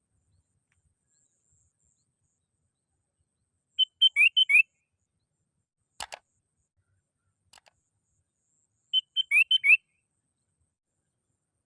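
Sooty-headed bulbul calling: a quick run of about five sharp chirping notes, given twice about five seconds apart, with a single click between them.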